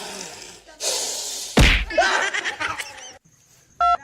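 Rustling, scuffling noise with one loud, sharp whack about a second and a half in. Near the end, a run of telephone keypad dialing tones begins.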